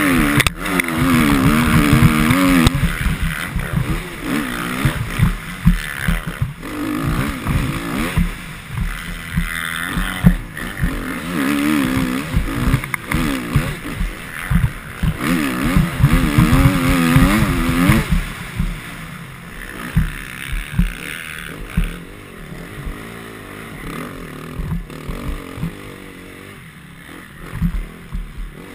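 Motocross bike engine revving up and dropping back again and again as it is ridden around the track, over rough low thumping; it falls quieter for the last several seconds.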